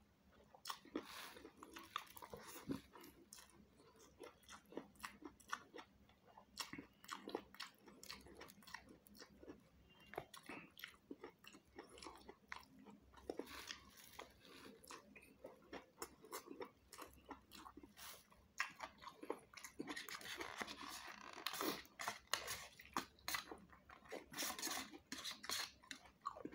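Faint chewing and mouth sounds of a person eating beef curry and rice by hand: a stream of short, irregular clicks that grows denser near the end.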